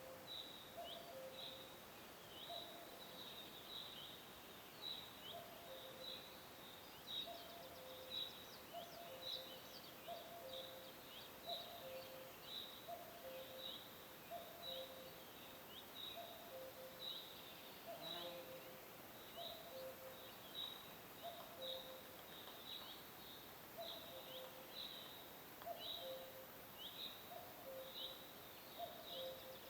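Birds calling faintly: short, high, falling chirps repeated about once or twice a second, with a lower, softer call repeating steadily underneath.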